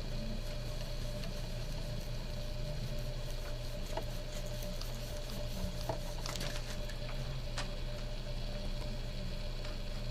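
Hot covering iron rubbing and sliding over heat-shrink covering film, with faint scattered crackles as the film is sealed down and shrinks, over a steady low hum.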